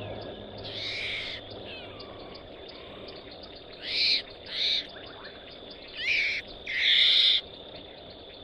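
A series of five short, high-pitched animal calls: one about a second in, two close together around four seconds, and two more near the end, the last one longer and the loudest.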